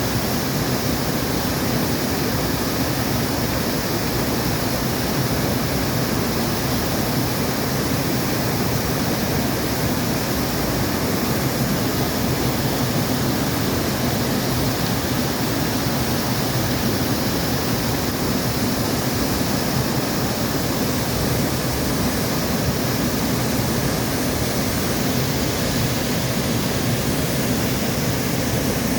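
Waterfall rushing, a loud, steady, unbroken roar of falling water.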